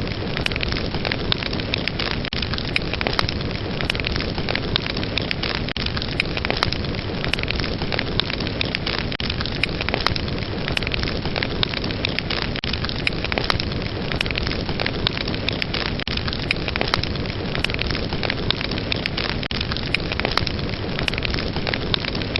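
Fire burning with a steady rush and dense crackling, many sharp pops scattered throughout.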